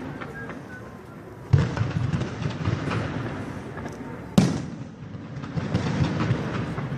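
Fireworks going off: a dense run of rapid crackling bangs starts about a second and a half in, with one especially loud, sharp bang about four and a half seconds in.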